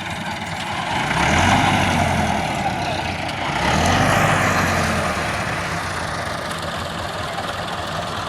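Tractor engine running steadily and revving up twice, each surge rising and then falling back in pitch.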